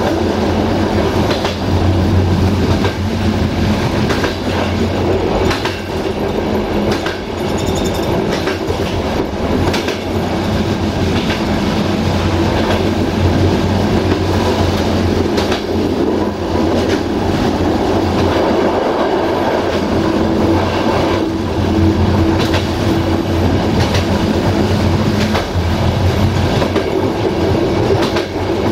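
Passenger coach rolling along the track at speed, heard from the rear of the train: a steady rumble and hum with the wheels clicking over rail joints at irregular intervals.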